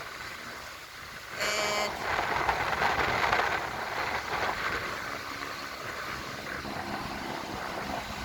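Heavy diesel construction machinery, a concrete pump and cement mixer truck, running steadily while pumping concrete, its noise swelling about a second and a half in. A short shrill tone sounds for about half a second at that point.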